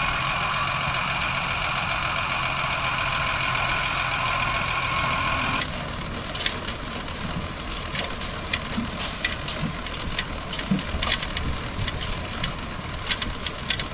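Tractor engine running a mounted potato harvester, with a steady whine. About five and a half seconds in, the sound changes suddenly to a quieter engine with many sharp clicks and clatters from the machinery.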